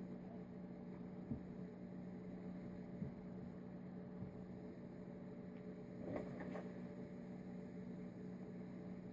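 Steady low electrical hum, with a few faint light clicks and a soft rustle from small carburettor jets and parts being handled on a bench.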